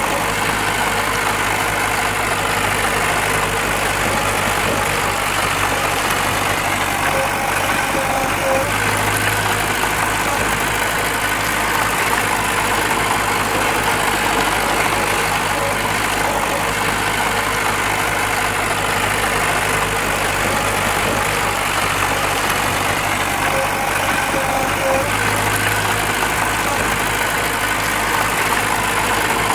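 Diesel engine of heavy earthmoving machinery running steadily, swelling slightly twice.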